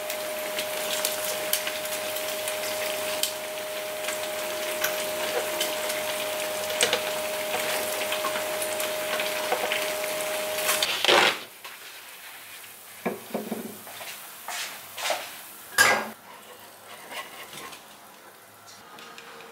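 Luncheon meat sizzling as it fries in a pan, with a spatula clicking and scraping against the pan. About eleven seconds in the sizzling stops, and a few separate clicks and knocks of utensils follow.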